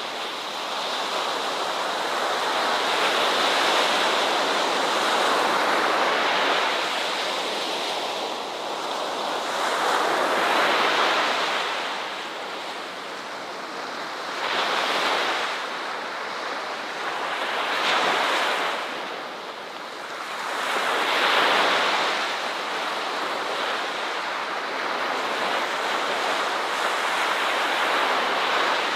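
Ocean waves breaking and washing on a shore, a continuous rush of surf that swells and recedes every few seconds.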